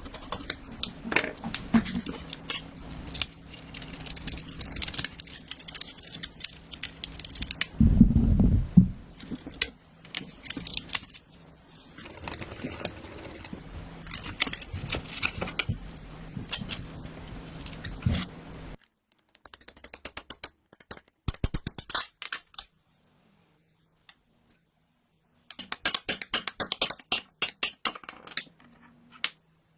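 Clicking and rattling of small metal parts and hand tools being handled, with one heavy thump about eight seconds in. From about the middle the clicking comes in short separate stretches with silent gaps between.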